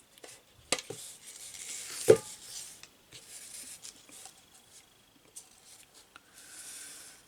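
A copper tea tin and lace trim being handled on a work surface: a few light knocks and taps, the sharpest about two seconds in, with soft rustling between.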